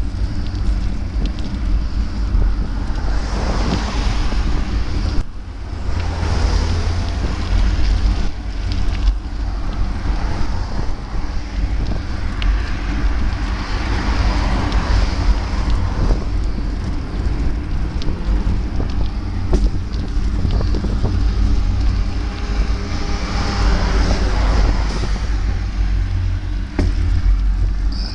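Wind buffeting the microphone during a bike ride, a heavy low rumble over steady rushing road noise that swells louder three times.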